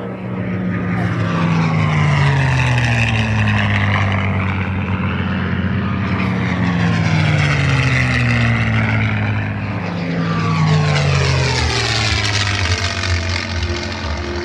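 P-51D Mustang's Merlin V-12 engine running loud in low flybys; the engine note drops in pitch three times as the aircraft pass.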